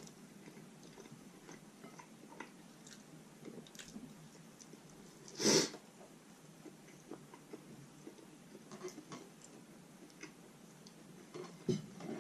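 Close-miked chewing of roast chicken: soft, wet mouth clicks and smacks scattered throughout, with a brief louder noise about five and a half seconds in and another shortly before the end.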